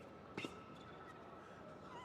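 A single short thud about half a second in, typical of a tennis ball impact on the court, over quiet court ambience with a faint steady high tone.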